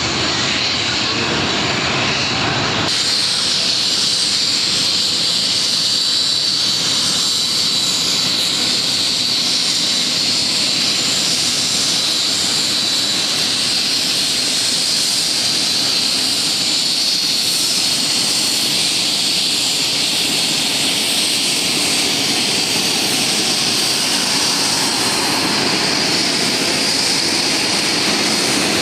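UH-60J helicopter in a display flight, its twin turboshaft engines and rotor giving a continuous rush of noise with a steady high whine. The sound changes character about three seconds in.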